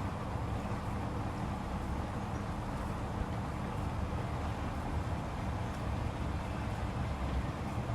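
Beko ECOWMB81445LW front-loading washing machine spinning its load of towels, a steady low hum and whirr with no change in speed.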